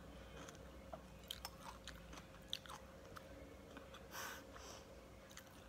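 Faint chewing of a mouthful of fried ampog with the lips closed: scattered soft mouth clicks, and a brief breathy rush about four seconds in.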